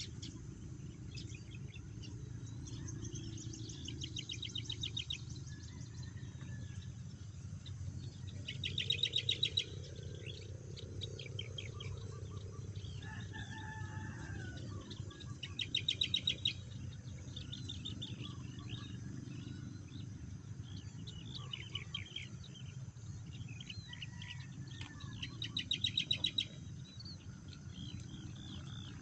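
Rural birdsong: a bird's rapid, high trill repeats four times at intervals of several seconds, with scattered chirps between. About halfway through a rooster crows briefly in the distance, over a steady low background rumble.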